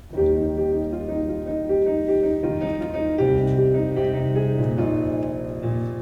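Keyboard in a piano voice playing the introduction to a worship song. It starts suddenly just after the beginning with held chords that change every second or so.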